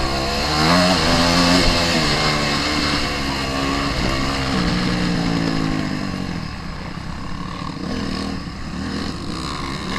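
Dirt bike engine revving, its pitch climbing and dropping several times, then fading away after about six seconds.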